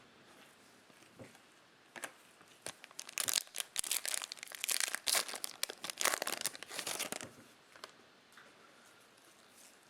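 Plastic cello wrapper of a Topps Chrome trading-card pack being torn open and crinkled, a dense run of sharp crackles for about five seconds in the middle.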